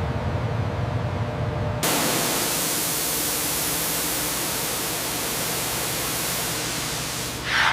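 A low rumble gives way, about two seconds in, to a sudden steady hiss of rushing air or spray, with a brief louder rush near the end.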